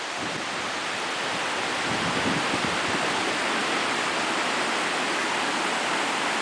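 Flood-swollen stream rushing: a steady, full sound of fast-moving water that grows a little louder over the first couple of seconds.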